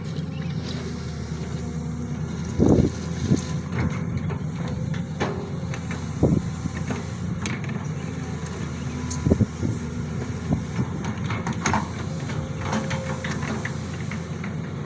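SANY SY215C hydraulic excavator's diesel engine running steadily under work, with a few sharp knocks about three seconds apart and scattered lighter clicks.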